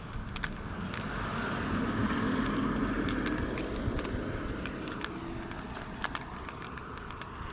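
A car passing on the road, its engine and tyre noise swelling to a peak a couple of seconds in and then fading away. Light clicks sound on and off throughout.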